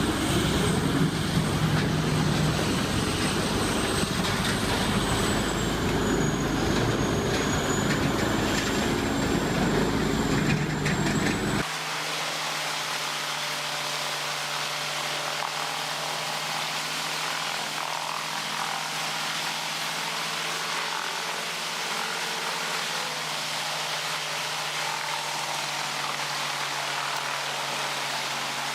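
CBI Magnum Force 8400 grinder running at full throttle as logs are fed in: a loud, dense mechanical noise with a faint high whine. About twelve seconds in it cuts abruptly to a quieter, steady machine hum with a low drone.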